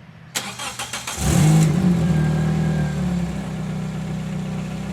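Toyota Corolla engine being cranked by the starter with the clutch pushed in: a click, about a second of cranking, then it catches with a brief rev and settles into a steady idle. The exhaust is in need of muffler work.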